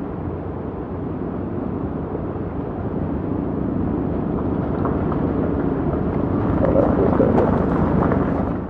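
Motorcycle engines running, a steady rumble that grows a little louder near the end, with indistinct voices of people around.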